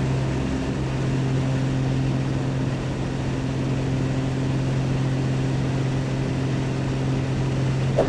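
Pitts Special biplane's engine and propeller running steadily in flight, heard from inside the cockpit as an even drone with a constant low hum. A single brief click comes near the end.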